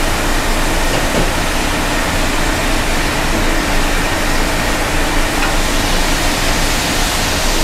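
Frozen root vegetables sizzling steadily in hot olive oil in a sauté pan on a gas burner, with a steady low hum underneath.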